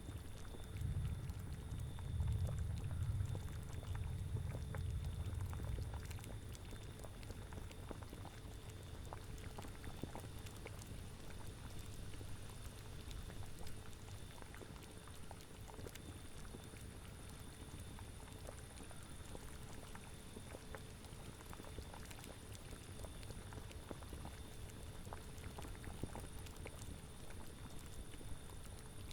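A cauldron bubbling at a steady boil, a constant run of small liquid pops. A low rumble swells and fades over the first six seconds.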